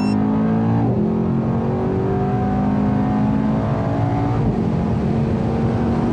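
Mercedes-AMG E63 S twin-turbo 4.0 L V8 at full throttle, heard from inside the cabin, pulling hard through the gears. The engine note climbs steadily, drops sharply on an upshift about a second in and again at about four and a half seconds, then climbs again. A short electronic beep sounds right at the start.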